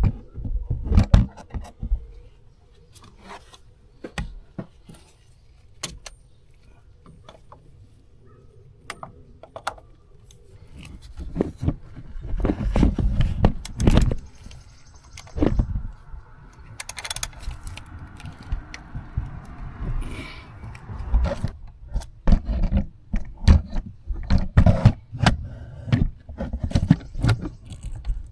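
Metal hand tools clinking, clicking and scraping against the oil filter housing cap as it is worked loose with a 15/16 socket, in a string of irregular knocks with denser scraping stretches.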